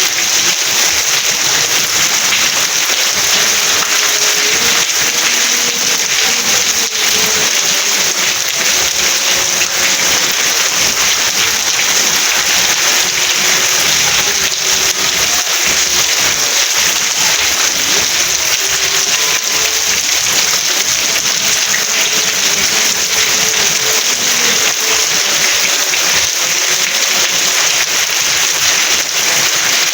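Steady, even rain noise with no let-up, a dense hiss that sits mostly in the upper range.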